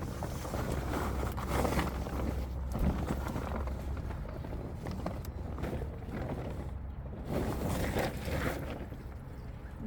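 A wet plastic tarp rustling and crinkling as it is tugged and worked loose from a wheelbarrow's axle, over a low rumble.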